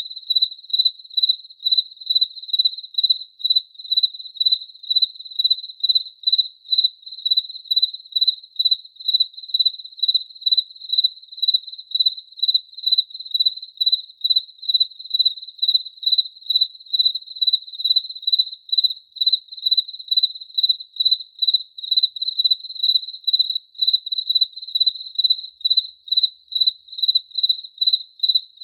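A cricket chirping in an even, unbroken rhythm of about two high-pitched chirps a second.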